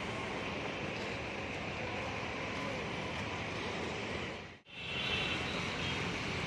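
Mahindra four-cylinder diesel engine of a 30 kVA generator set running steadily. The sound drops out for an instant about four and a half seconds in, then carries on.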